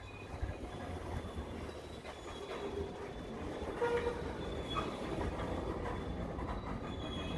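Freight train rolling past: a steady low rumble of locomotives and cars, with a faint high wheel squeal.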